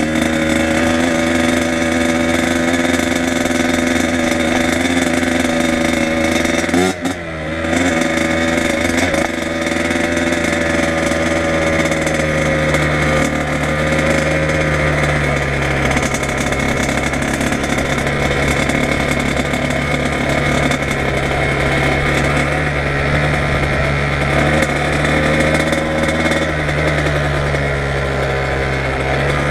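Kawasaki KX100 two-stroke dirt bike engine running under way at a fairly steady speed. About a quarter of the way in, the sound drops briefly as the throttle comes off, then picks back up.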